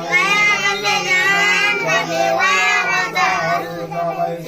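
Children singing, voices in long gliding notes over a steady low hum.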